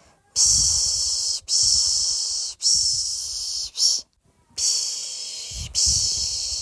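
A person soothing a baby with the repeated 'piş piş' shushing hiss, about one long hiss a second. A short clipped one and a brief pause come about four seconds in.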